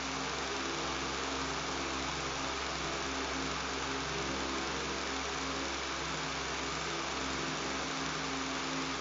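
Electric fan running steadily: an even hiss with a low buzzing hum underneath.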